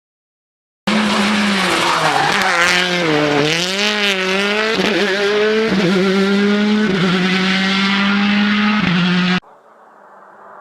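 Rally car engine at high revs, loud, its pitch dipping and then climbing again with several steps as the car brakes and accelerates through the gears. It stops abruptly near the end, leaving a much quieter engine sound.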